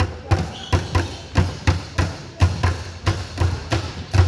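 Basketballs bouncing on a gym floor, several balls at once, giving an irregular stream of thuds several times a second. A short high squeak about half a second in.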